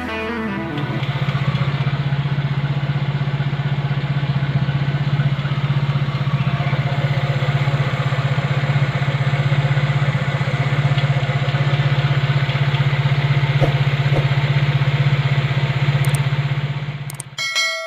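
1999 Nissan Sentra (B14) engine idling steadily on its freshly overhauled distributor, with a fast, even pulse. It cuts off near the end and a bright notification ding sounds.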